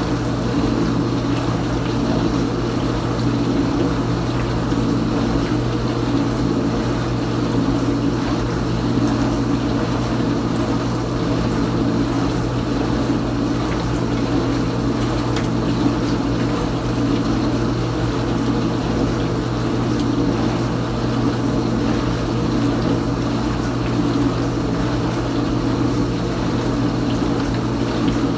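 Kenmore Ultra Wash 3 dishwasher running its wash cycle: a steady motor hum with water spraying and splashing inside the tub.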